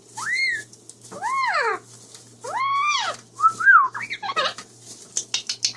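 Amazon parrot giving a series of whistle-like calls, each rising and falling in pitch, four in a row, followed by a quick run of sharp clicks near the end.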